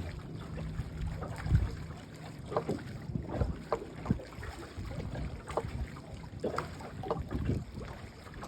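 Water lapping against a boat on a lake, with wind on the microphone. A low steady hum runs for the first couple of seconds, and scattered knocks and thumps follow; the loudest comes about a second and a half in.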